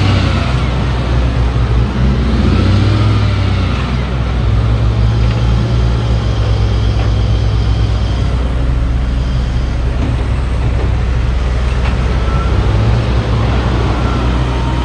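Diesel engine of heavy earthmoving machinery running steadily, its low note rising and falling a little as the load changes.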